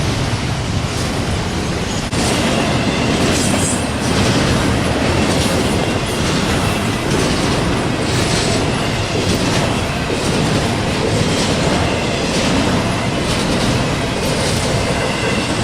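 Intermodal freight train rolling past at close range: steady rumble of the cars, with wheels clicking over rail joints about once a second and a faint high wheel squeal from about four seconds in.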